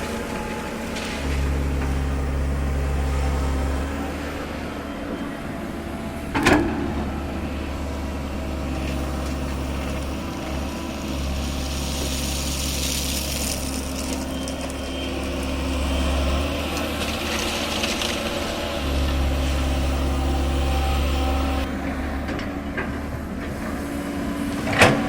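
Komatsu PC210-10 excavator's diesel engine running, its level rising and falling several times as the machine works. A sharp knock comes about six seconds in and another near the end.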